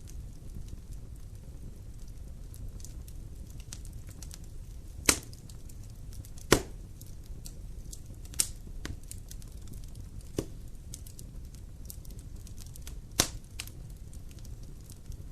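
Fire burning in a fireplace: a steady low rumble with scattered faint crackles and five sharp pops, the loudest about six and a half seconds in.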